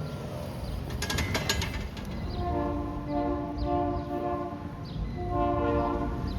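Freight locomotive's multi-note air horn sounding two blasts, a long one about two and a half seconds in and a shorter one near the end, over a low rumble. A brief burst of rapid clicking comes about a second in, before the horn.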